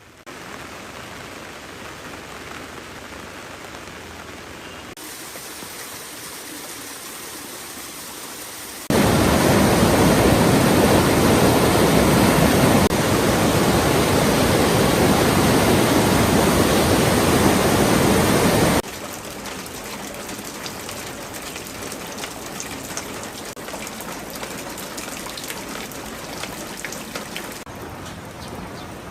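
Steady rain falling, with no voices. The level jumps suddenly several times, and the rain is heaviest and loudest through the middle third.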